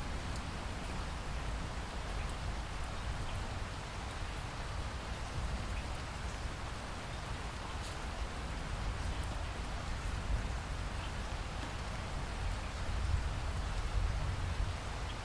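Steady rain falling, a continuous even hiss with scattered small drop ticks.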